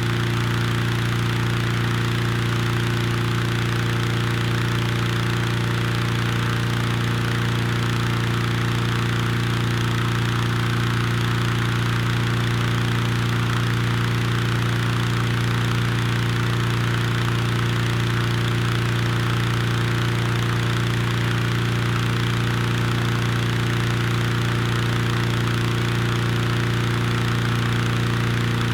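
A steady low hum with overtones, brought on by strong wind, over a steady rushing hiss of the wind.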